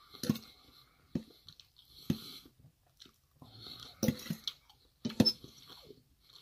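A person chewing a mouthful of tofu curry, close to the microphone, with wet mouth sounds and a few sharp clicks about a second apart.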